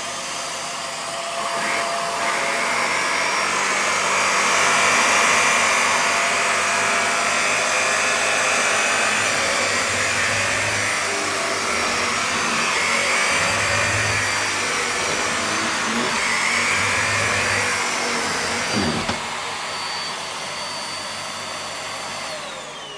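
Vax Air Stretch Pet Max upright vacuum cleaner running on carpet with strong suction, a steady motor whine. Near the end the whine falls in pitch as the motor is switched off and winds down.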